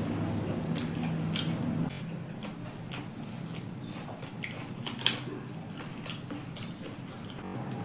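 Close mouth sounds of eating by hand: wet chewing clicks and lip smacks from biting into fried chicken and rice, with two sharper smacks about five seconds in. A low steady hum stops about two seconds in.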